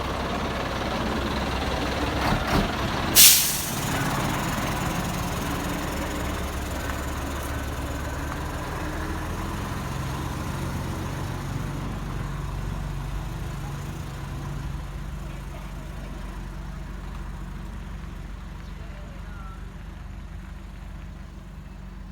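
Heavy truck engine running with a steady low hum. About three seconds in, after two short clicks, the air brakes let out one sharp, loud hiss. The engine sound then fades gradually.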